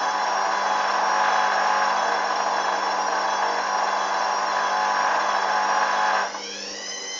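Hoover Dynamic washing machine spinning at high speed, its motor giving a loud, steady whine over a hum. About six seconds in the drive cuts out and the whine falls in pitch as the drum winds down at the end of the spin.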